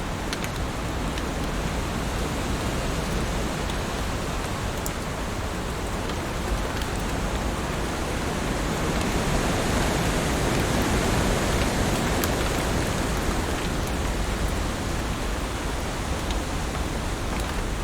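Heavy rain falling steadily on leaves, a dense even hiss that swells a little louder around the middle, with a few single drops ticking through.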